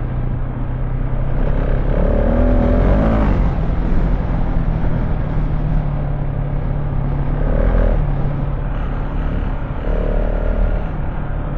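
KTM 690 Enduro R's single-cylinder engine running under way on an off-road trail. The engine speed steps up a few seconds in and drops back about two-thirds of the way through, over a rough, noisy background of wind and ground.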